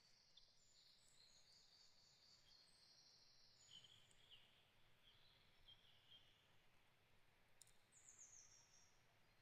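Faint forest birdsong from several small birds: a thin trill in the first few seconds, then short chirps, and a quick run of falling notes near the end.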